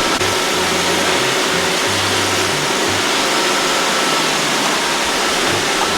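Many Roomba robot vacuums running at once, a dense steady whir of motors and brushes with a faint background tune underneath.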